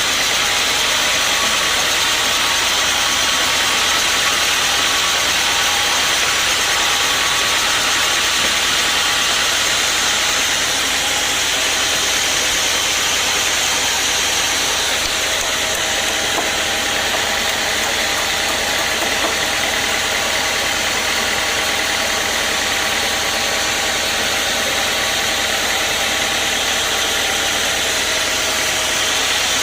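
Sawmill machinery running steadily: a continuous engine-type drone with a strong hiss.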